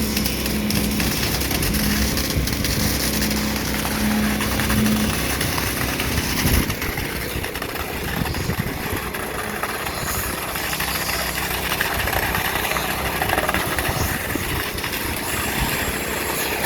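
Concrete pump truck's diesel engine running steadily under load as it pumps concrete, with a pulsing tone during the first five seconds.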